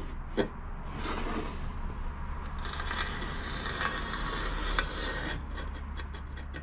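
A scribe scraping along an exhaust pipe to mark a cutting line, in long scraping strokes, followed by a few short clicks near the end.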